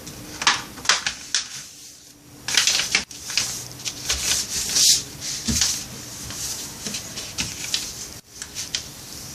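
A sheet of paper being folded and creased by hand: a string of short, uneven rustles and scrapes as the paper is handled and the fold pressed flat.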